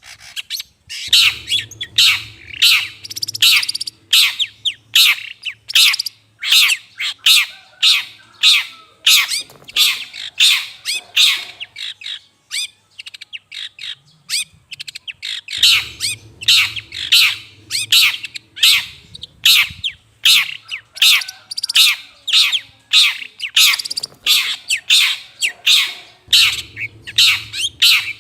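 Long-tailed shrike (cendet) lure call: rapid harsh calls repeated about three a second without pause, with a low hum underneath at times.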